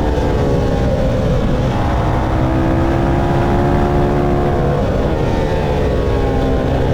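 Motorcycle engine running hard on a race track, its pitch rising and falling as the revs change, over a steady low rush of noise.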